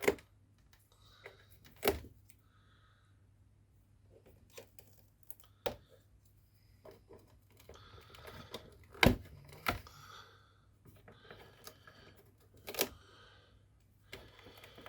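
Scattered sharp clicks and knocks, about six in all with two close together about two-thirds of the way through, and soft rustling between them: the plastic housing of a Nespresso coffee machine being handled and turned over on the bench for disassembly. A faint steady hum runs underneath.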